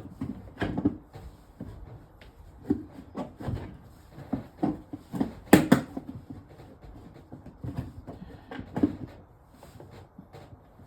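Irregular knocks, clicks and scraping of drain pipe parts and a bucket being handled under a kitchen sink, with the loudest knock about five and a half seconds in.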